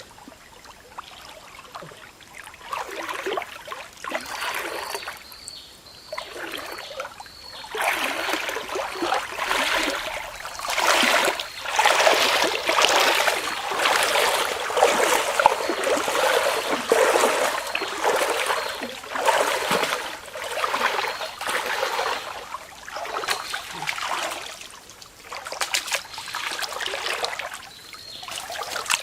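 Water splashing and trickling in irregular surges, heaviest through the middle stretch, as water is disturbed in a shallow pond.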